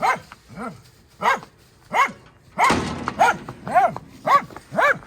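Dogs barking repeatedly, a steady run of short barks about every half second, a few of them deeper.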